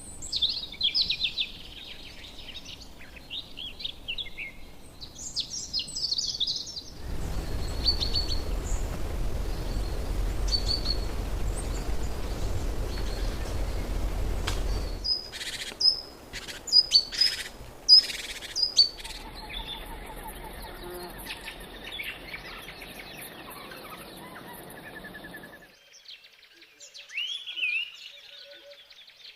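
Small birds chirping and trilling in short high calls. For several seconds a loud rushing noise runs beneath them, followed by a run of sharp, clipped high notes; near the end a few rising calls stand alone against quiet.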